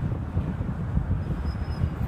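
Low rumble of road and wind noise from a Hyundai Sonata NF driving, with faint, short high-pitched chirps starting a little over a second in.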